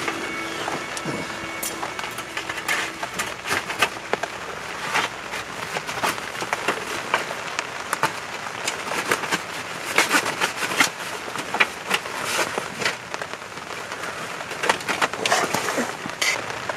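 Heavy rain falling, a steady wash with many irregular sharp drop hits.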